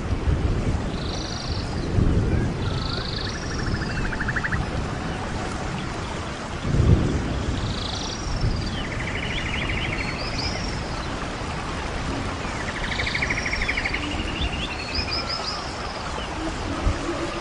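Birds chirping and trilling, with short sweeping notes and buzzy trills repeating every second or two over a steady hiss. A soft low thump about seven seconds in.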